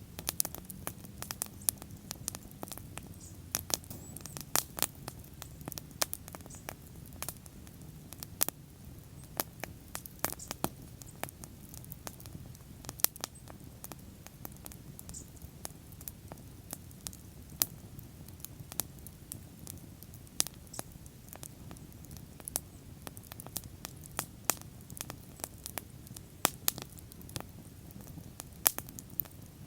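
Bonfire burning, with irregular sharp crackles and pops of the wood over a steady low rumble of the flames.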